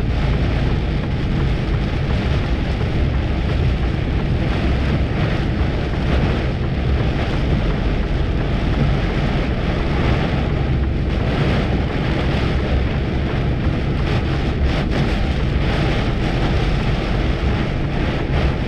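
Torrential rain and road spray on a moving HGV lorry, heard from inside the cab as a loud, steady wash of noise over the lorry's engine running.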